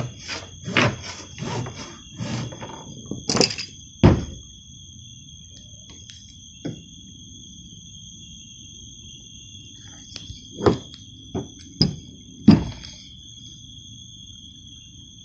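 Irregular knocks and clunks on a plastic kayak hull as anchor-trolley hardware is fitted: a quick run in the first four seconds, one lone knock, then four more near the end. Crickets trill steadily behind.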